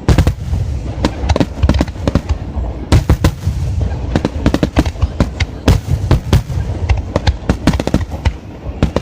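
Fireworks shells bursting in rapid succession: many sharp cracks and booms over a continuous low rumble.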